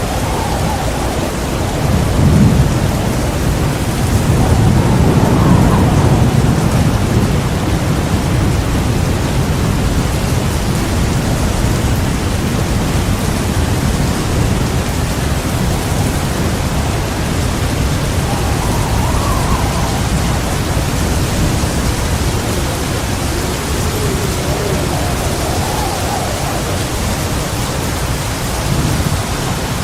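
Heavy rain pouring steadily with rolling thunder: a loud rumble breaks about two seconds in and rolls on for several seconds, with softer rumbles later.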